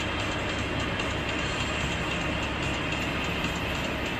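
Steady low rumble with an even hiss from a running vehicle, unchanging throughout.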